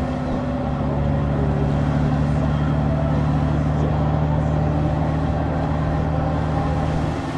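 Honda Gold Wing's flat-six engine running steadily under way, over a steady hiss. It gets a little louder about a second in.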